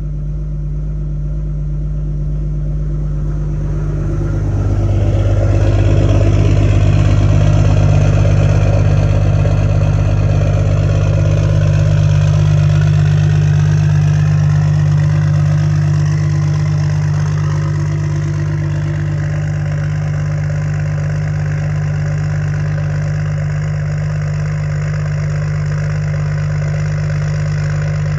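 6.7 Cummins inline-six turbo diesel with no grid heater, running just after a cold start in 13°F weather. About four seconds in it grows louder, with a high whine sliding up and down in pitch above the engine note. It settles back to a steadier, slightly quieter run by about seventeen seconds.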